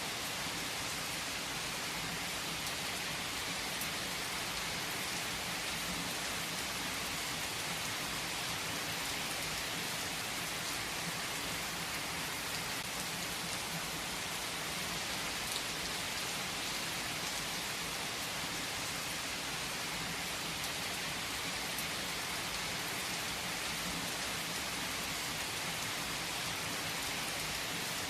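Steady rain falling, an even, unbroken patter with no thunder rising out of it.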